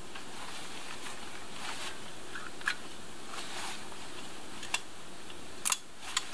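Light rain falling steadily, with a few sharp clicks from a handheld caulking gun being handled; two of the clicks come close together near the end.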